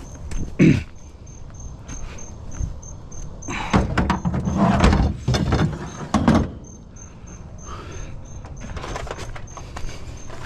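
Knocks and scraping of curbside junk, such as an old chair, being handled: one sharp clunk about a second in, then a run of louder clatter in the middle. Under it are a steady low rumble and a faint high ticking about five times a second.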